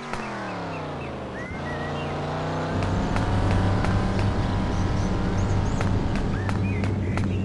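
Car engine running. Its pitch falls over the first second or so, rises again, then settles into a steady, louder hum about three seconds in. Birds chirp over it.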